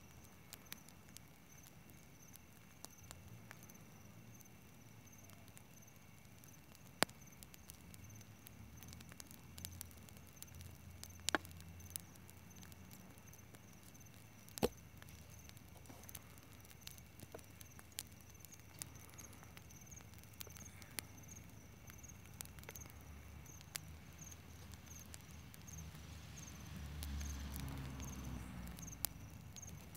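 Campfire crackling with irregular sharp pops, a few of them louder, over a steady high chirping of crickets; a low rumble swells near the end.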